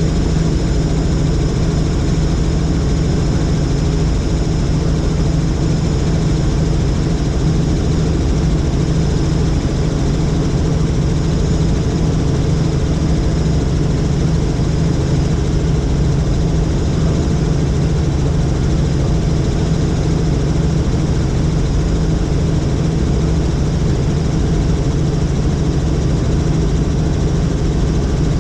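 Helicopter in flight: a loud, steady drone of rotor and engine that does not change.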